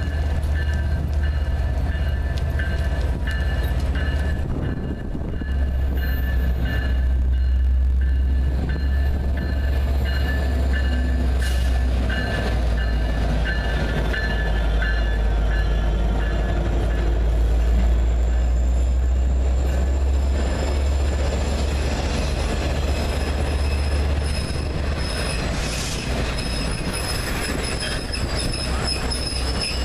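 New York, Susquehanna & Western diesel locomotive rumbling as it approaches and passes close by, its bell ringing at a steady rate through the first half. The engine rumble fades after about 24 seconds as the trailing caboose and passenger cars roll past, with wheels squealing on the rails near the end.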